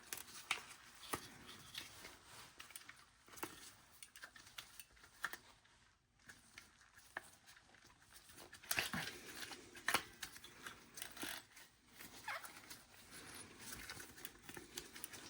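A new rubber tire being worked by hand onto a Roomba i7 drive wheel: faint, irregular clicks and scrapes of rubber and plastic, a little louder about nine to ten seconds in.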